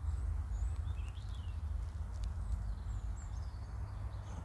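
Steady low wind rumble on the microphone, with faint chirping birds and a few light clicks.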